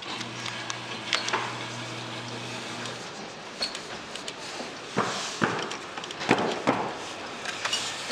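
Arcade claw machine: a steady motor hum for about three seconds, then several sharp clicks and knocks.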